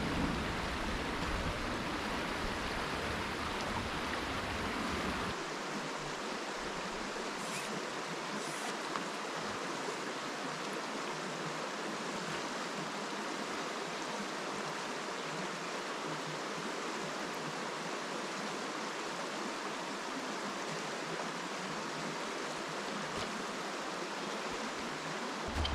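A river running steadily, an even rushing hiss of flowing water.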